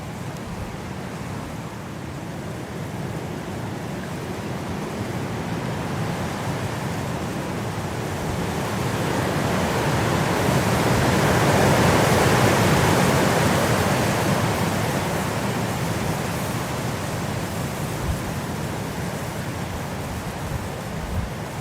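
Wind blowing as a steady rushing noise that builds into a strong gust about halfway through and then dies back down.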